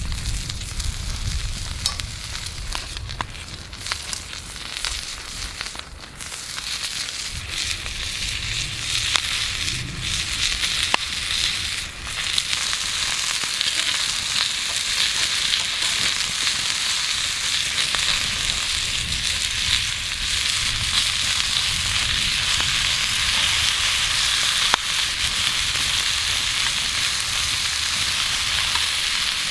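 Wagyu fillet steak sizzling as it cooks over a campfire: a dense frying hiss that builds over the first several seconds and then holds steady, with occasional small pops and crackles.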